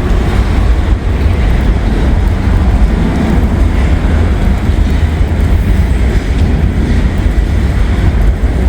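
Wind buffeting the microphone: a steady, loud low rumble with no distinct machine tone.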